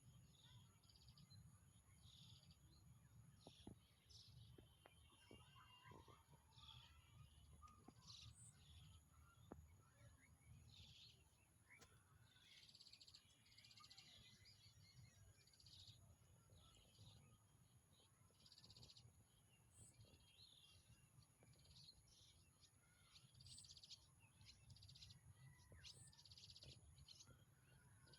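Faint outdoor birdsong: many short chirps from several birds, scattered irregularly, over a steady high-pitched whine and a low rumble.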